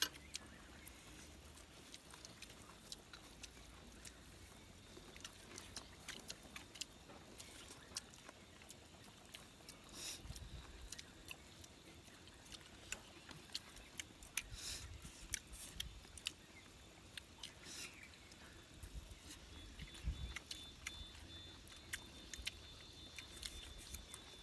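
People chewing food, eaten by hand, with many small clicking and smacking sounds of eating. A few low rumbles of wind on the microphone come and go.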